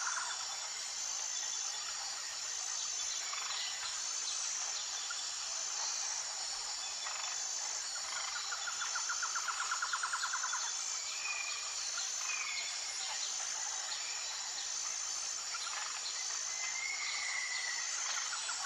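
Outdoor nature ambience: a steady high-pitched insect chorus with a note pulsing about once a second. A rapid trill runs for about two seconds around the middle, and a few short bird whistles come through later.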